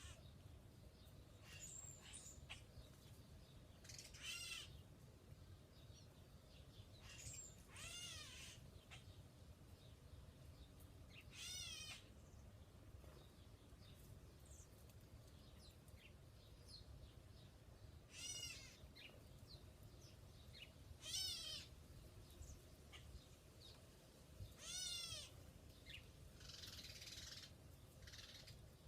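A bird giving a mewing, harsh call over and over, about six times, each call short and spaced three to four seconds apart. A few fainter chirps fall between the calls.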